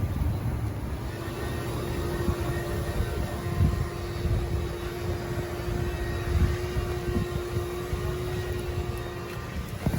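Car on the move: a steady engine drone holding one pitch, over a low rumble with occasional low thumps.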